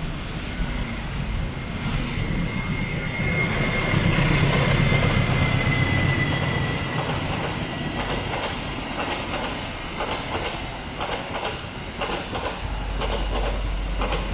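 Diesel-hauled passenger train running past below: a low rumble swells about four to six seconds in, with a thin high whine that falls slightly in pitch, then the coaches' wheels click rapidly over the rail joints.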